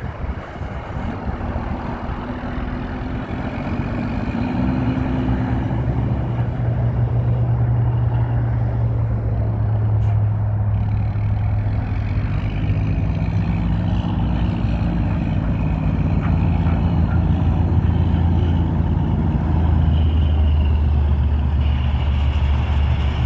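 1993 International boom truck's engine running, getting louder over the first few seconds. Its engine speed rises and falls in long steps several times.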